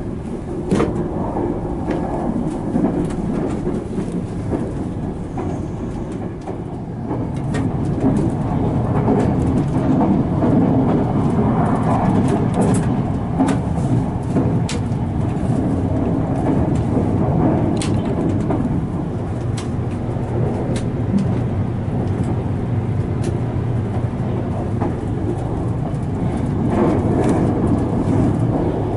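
Running noise of a JR Kyushu 787-series limited express heard inside a passenger compartment: a steady low rumble with scattered sharp clicks, growing louder about seven seconds in.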